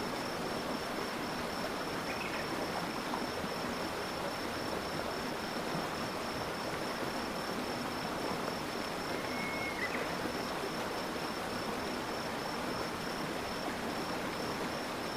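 Steady rush of flowing stream water, with an insect's high, evenly pulsing trill running over it and a couple of faint short chirps.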